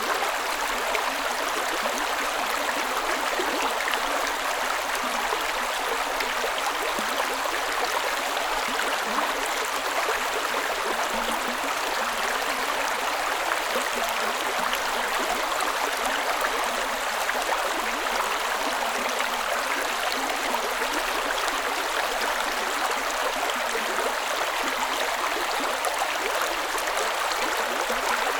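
A creek running over stones: steady rushing and gurgling of flowing water.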